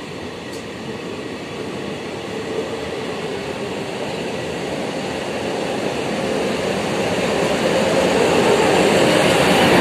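Passenger train coaches rolling along the platform, a steady rumble of wheels and coaches that grows louder throughout.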